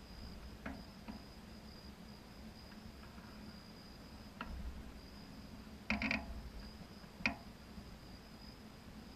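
Crickets chirping in a steady high trill, with a few scattered clicks and knocks; the loudest, a short clatter, comes about six seconds in.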